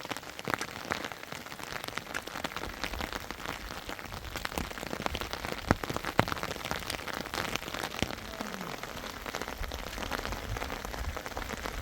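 Steady rain falling, with many individual drops striking close by as sharp ticks, a couple of louder hits about six seconds in.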